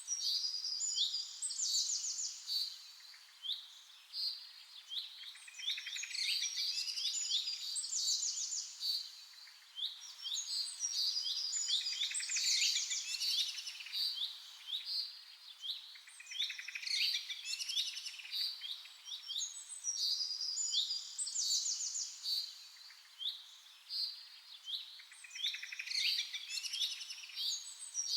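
Birdsong: several small birds chirping and trilling in quick, high-pitched phrases that overlap, with brief lulls every several seconds.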